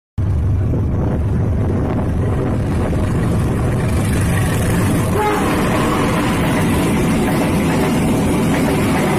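Diesel-hauled passenger train coming out of a tunnel and passing close by: a steady low rumble from the locomotive, joined from about four seconds in by a rising rush of wheels on rails as the coaches go past.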